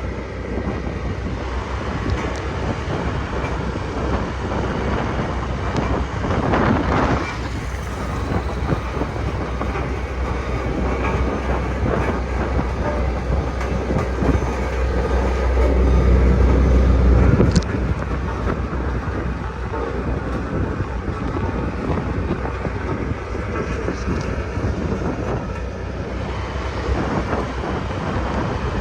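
Sakai road roller's diesel engine running under load, a continuous heavy rumble. Near the middle the low rumble swells for a couple of seconds, then drops off suddenly.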